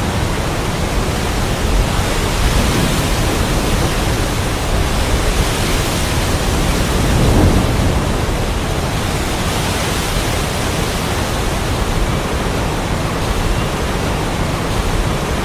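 Heavy rain with wind, a steady dense hiss, and a low rumble that swells briefly about halfway through.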